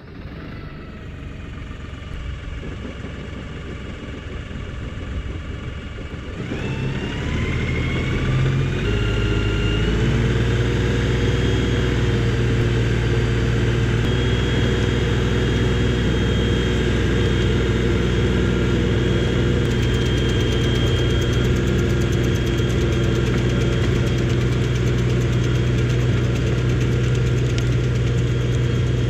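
35 hp LS XR3135 tractor's diesel engine running, revving up about six seconds in and then holding a steady, louder speed as it drives the rear rotary tiller.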